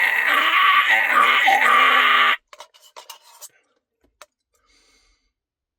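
A man's drawn-out, wordless vocal cry that cuts off suddenly a little over two seconds in. A few faint clicks and rustles follow, including one sharp click about four seconds in.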